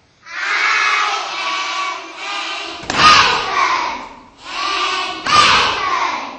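A class of young children chanting a jazz chant together in loud phrases, with two thuds about three and five seconds in.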